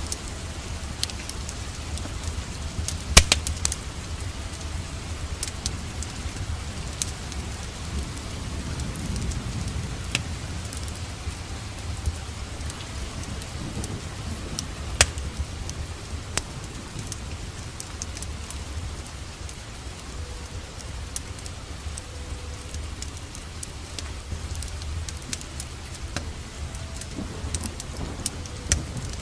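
Steady rain together with a crackling wood fire in a fireplace: an even hiss with a low rumble, dotted with sharp pops and crackles. The loudest pops come about 3 seconds in and again near the middle.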